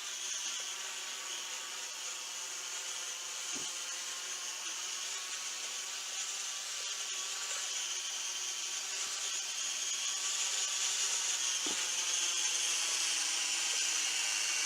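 Huajun Toys Flanker W606-5 toy quadcopter's motors and propellers buzzing steadily in flight, growing gradually louder.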